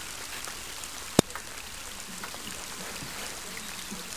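Steady hiss of rain falling on open water, with one sharp tap about a second in.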